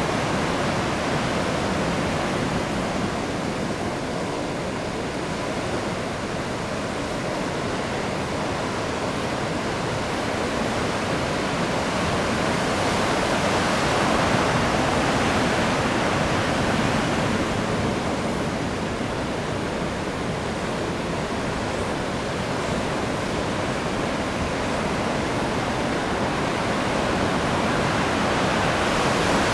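Heavy surf from a typhoon swell breaking on a reef: a continuous roar of crashing waves and whitewater that grows louder and eases slowly, peaking about halfway through and again near the end.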